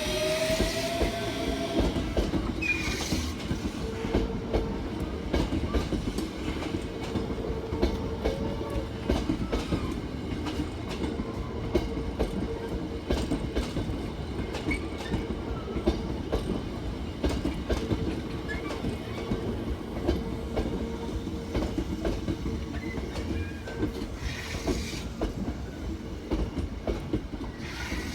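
Hankyu 8000 series electric train pulling away: the rising whine of its Toshiba GTO-VVVF inverter ends about a second in, then the wheels clatter over rail joints with a steady rumble as the cars roll past, under a steady tone.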